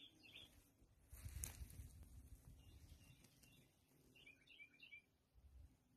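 Near silence with faint bird chirps: a few just after the start and a short run of twittering about four seconds in, with a faint burst of noise about a second in.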